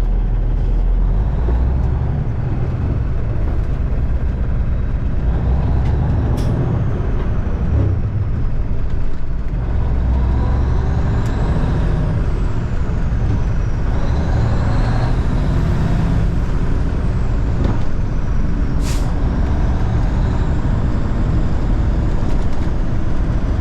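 1989 Kenworth K100E cabover truck's diesel engine running under load while driving, with a high whine that rises and falls several times as it pulls through the gears. Two short, sharp hisses cut through, about six seconds in and again near nineteen seconds.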